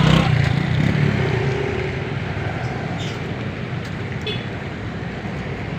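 Road traffic: car and bus engines running close by, with tyres hissing on a wet road.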